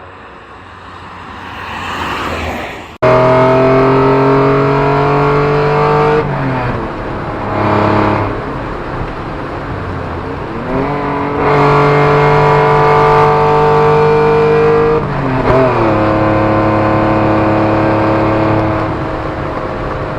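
Supercharged Ford Probe 2.5 V6 accelerating hard, its note climbing steadily in long pulls and dropping sharply at each gear change. It starts abruptly about three seconds in, after a quieter opening.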